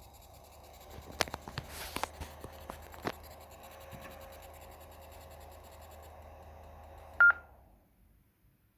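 Yaesu FTM-100 mobile transceiver putting out noise while receiving on Wires-X: a steady hiss with a thin high-pitched whine over it, the distinctive noise fault the owner is showing. Scattered clicks come between about one and three seconds in, and a short loud beep sounds about seven seconds in just before the audio cuts out.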